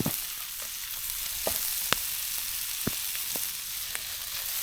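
Sausage pieces frying in cooking oil in a frying pan: a steady sizzle with scattered sharp pops and crackles.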